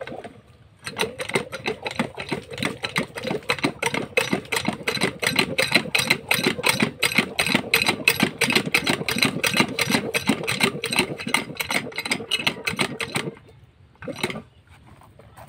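Field Marshal 8HP single-cylinder diesel pump-set engine running with a rapid, even exhaust beat. It starts about a second in and cuts off abruptly near the end.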